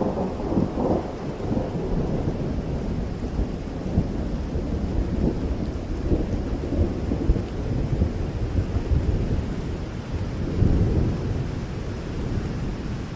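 Rain falling steadily with low, rolling thunder. The rumble swells near the start and again about ten and a half seconds in.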